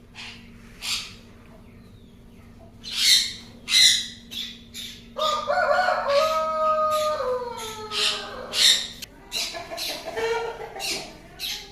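Rooster crowing once, a long call of about three seconds that falls in pitch at the end, among short sharp calls before and after.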